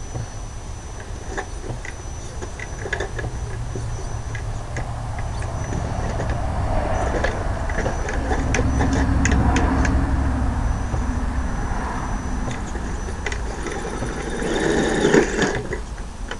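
Electric motor and gear drivetrain of an Axial Trail Honcho RC crawler running as it drives, a thin high whine with scattered clicks over a low rumble. The sound swells to a louder burst near the end.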